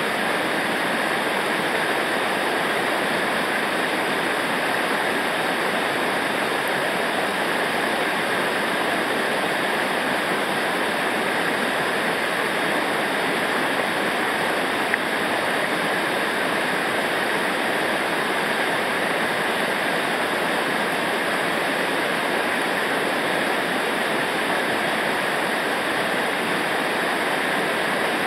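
Rushing river water, a steady, unbroken loud rush of rapids or falling water.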